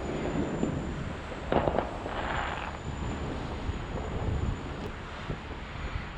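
Fireworks going off in the distance: a few sharp bangs about a second and a half in, then a brief hissing crackle, over a steady low rumble.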